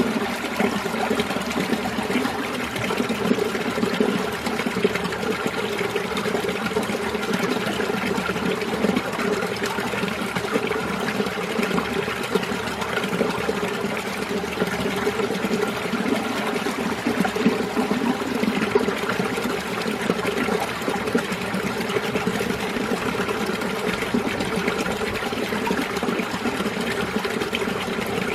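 Mountain stream water flowing steadily over rocks, a continuous, even rush of running water.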